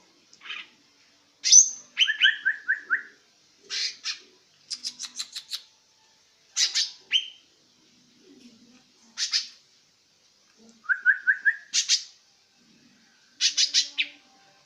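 Green leafbird calling in bursts: sharp chips, quick stuttering trills and runs of short rising whistled notes, separated by pauses of about a second.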